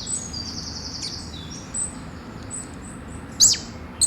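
Small birds chirping: a rapid high trill near the start, scattered short high chirps, and a loud, sharp downward-sweeping call about three and a half seconds in, over a steady background hiss.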